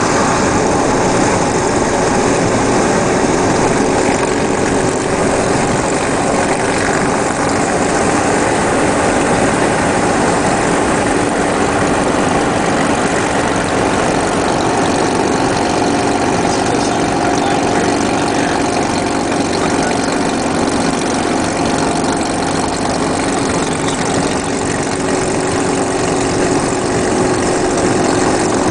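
Motorcycle engine running at a steady speed under a loud, even rush of wind noise.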